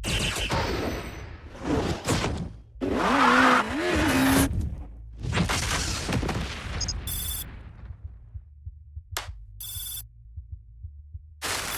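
Loud noisy surges for the first five seconds or so, one carrying a wavering tone. After that comes a telephone-like ring in three short bursts about two and a half seconds apart.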